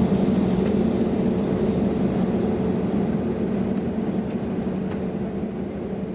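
Steady hum of an Airbus A320neo heard from inside the cabin while on the ground, with a low droning tone, slowly getting quieter toward the end.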